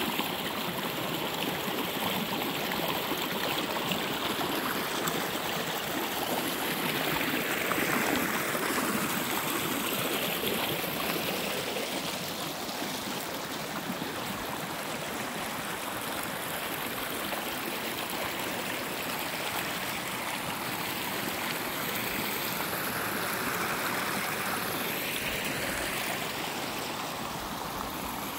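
A small creek running over rocks: a steady rushing and babbling of flowing water.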